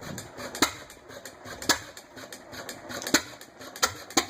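1926 John Deere hit-and-miss gas engine running, its exhaust giving sharp single pops at uneven intervals, about five of them, as it fires only now and then and coasts between firings.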